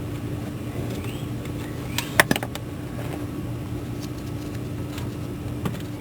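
Steady low mechanical hum with a few sharp clicks about two seconds in.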